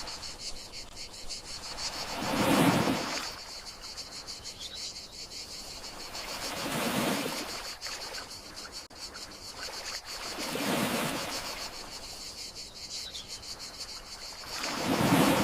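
Gentle sea waves washing in, four soft swells about four seconds apart, over a steady high chirring of crickets.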